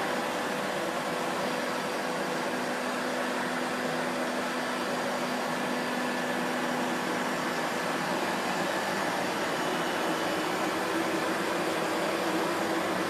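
Vacuum cleaner running steadily: an even motor and airflow noise with a few faint steady tones, unchanging throughout.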